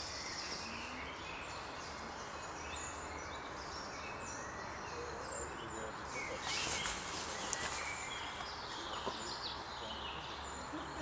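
Several forest songbirds singing and chirping over a steady hiss of woodland ambience, a little louder about six seconds in.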